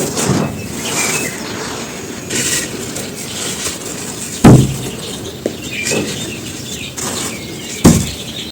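Dry charcoal ash crumbling and crunching with a crisp crackle. Two heavy thumps land about halfway through and again near the end.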